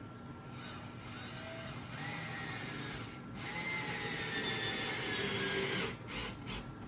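Power drill driving a screw through a closet rod bracket. The motor runs in two long pulls with a short pause between them, then stops near the end, leaving a few light clicks.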